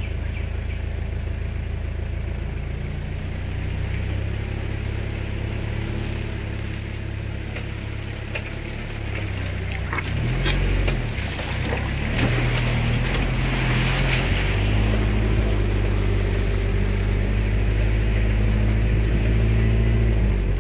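Vehicle engine running as it drives slowly over a rutted dirt road, with a steady low hum. A few knocks come in the first half. Around the middle the engine's pitch shifts and it runs a little louder and harder for the second half as the vehicle climbs.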